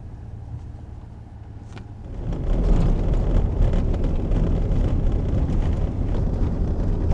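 Snowmobile engine running low and steady, then running much louder from about two seconds in.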